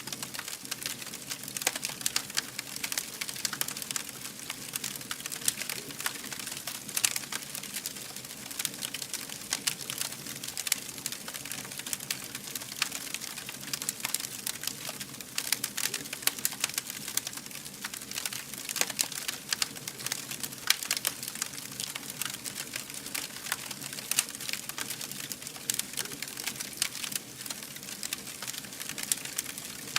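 Wood fire burning, with dense irregular crackles and pops over a steady hiss.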